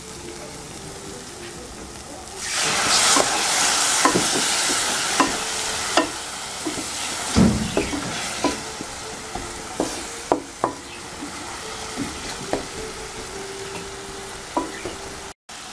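Onion-and-spice masala frying in hot oil in a metal pan, stirred with a wooden spatula that scrapes and taps against the pan. About two and a half seconds in the sizzle swells loudly and dies down over several seconds, as a splash of water hits the hot oil.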